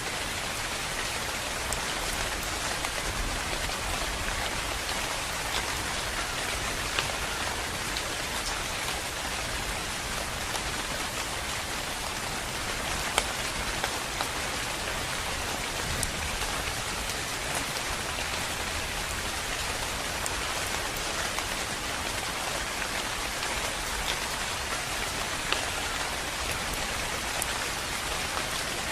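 Steady rain falling on a surface, a constant hiss with occasional sharper drips standing out.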